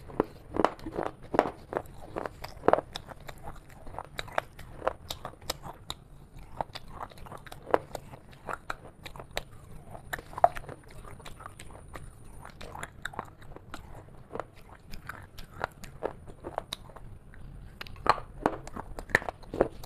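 Close-miked biting and chewing of brittle chocolate pieces, with sharp crunches coming several times a second at irregular intervals.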